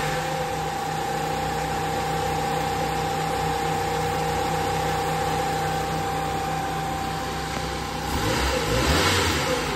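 Nissan GA13 carbureted four-cylinder engine idling steadily, with a steady whine over it. It is revved briefly about eight seconds in, then drops back.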